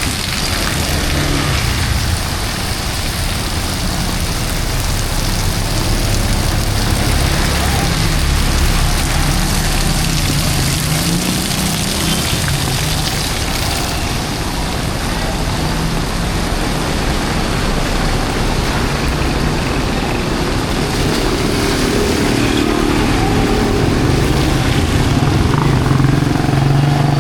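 Heavy rain on a city street mixed with traffic: vehicle engines running and passing on the wet road.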